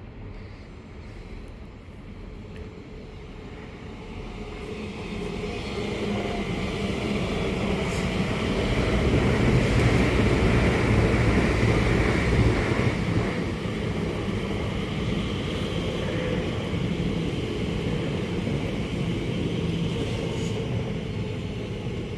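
A train approaching and passing, its rumble and low hum growing from a few seconds in to loudest in the middle, then running on steadily a little quieter.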